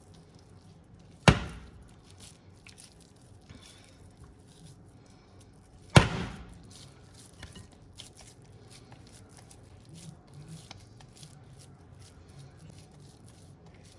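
Hands squishing and pressing raw ground-beef mixture around a stuffed pepper, with faint sticky handling noises and two sharp thumps about five seconds apart.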